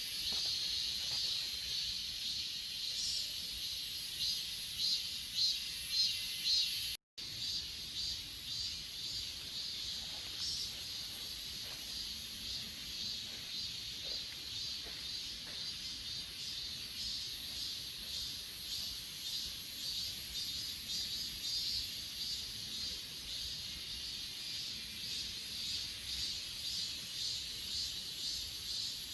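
Chorus of grass insects chirping: a rhythmic pulsed trill over a steady high-pitched buzz. The sound drops out completely for a split second about seven seconds in.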